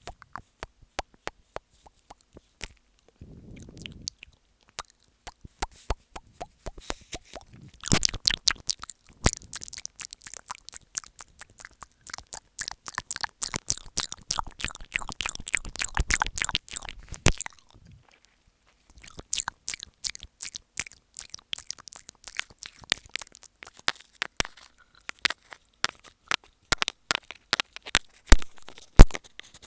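ASMR mouth sounds made right against an earphone microphone: wet clicks and smacks of lips and tongue ("mic eating"). The clicks start sparse, come thick and fast from about a quarter of the way in, and stop briefly a little past the middle.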